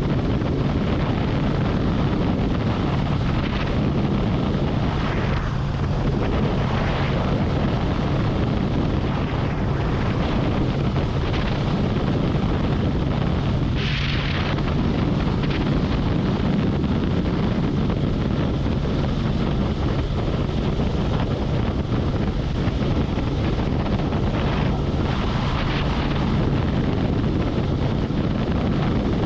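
Harley-Davidson Road Glide's V-twin engine running steadily while cruising on the highway, with wind buffeting the helmet-or-bike-mounted microphone. A brief louder rush of air comes about fourteen seconds in.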